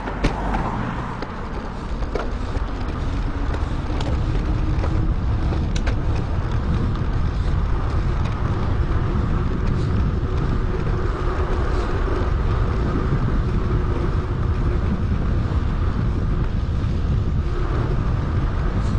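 Steady wind rush on an action camera's microphone while riding a bicycle, growing louder over the first few seconds and then holding steady.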